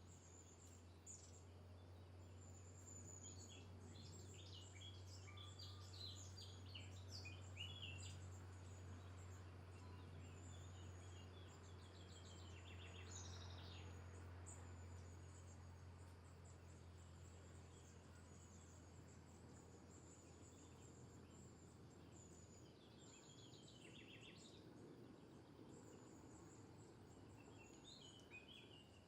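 Faint outdoor ambience with scattered bird chirps and short trills, over a steady low hum that drops away about three quarters of the way through.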